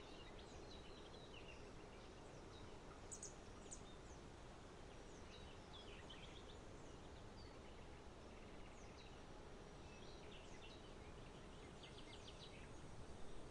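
Faint chirps and short calls of small songbirds over a steady low background hum, with a quick run of chirps near the end.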